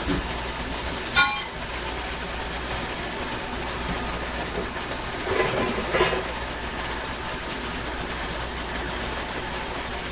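Electric stand mixer running steadily with its paddle attachment, beating rye bread dough. A brief ringing tap comes about a second in.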